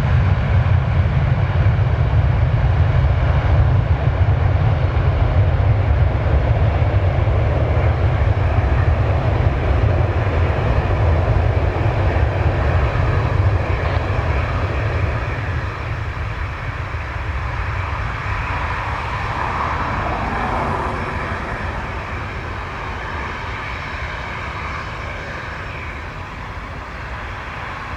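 Boeing 757-236 jet engines at takeoff power: a loud, steady low rumble that fades over the second half as the airliner climbs away.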